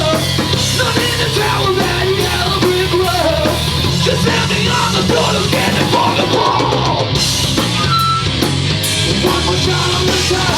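Live punk-metal band playing loud, with drums, between sung lines.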